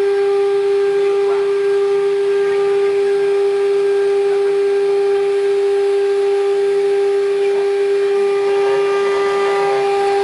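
CNC router spindle running at constant speed while cutting acrylic sheet: a steady, unchanging whine.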